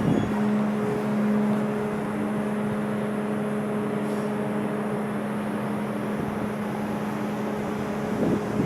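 Steady low hum of a large car ferry's machinery, a continuous drone with a clear low pitched tone running through it.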